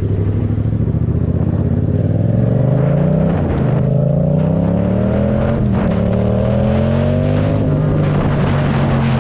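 Yamaha MT-07 parallel-twin engine accelerating through the gears, its pitch climbing and then dropping at three upshifts before settling into steady running.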